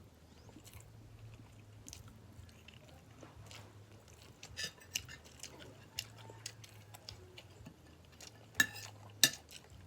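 Close-up chewing and eating of fried milkfish and rice: small wet mouth clicks and smacks throughout, growing busier partway through, with two sharp, loud clicks near the end.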